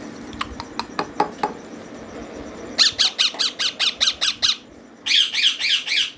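Green ringneck parakeet chicks squawking in quick, rhythmic runs, the begging calls of chicks at feeding time: about ten calls in a row, a short pause, then about six more. A few short clicks come before the calls.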